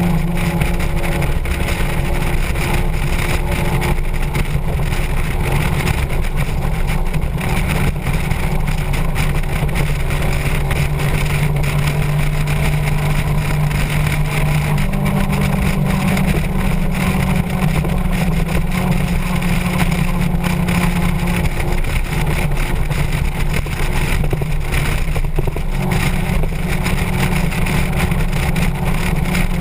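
Motorcycle engine running at road speed with wind rushing past. The engine note steps up and down in pitch a few times as speed or gear changes.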